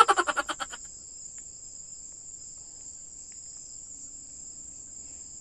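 Steady nighttime chorus of crickets and other insects, a continuous shrill trilling in two high pitches. Right at the start, a loud burst of rapid pitched pulses fades out within about a second.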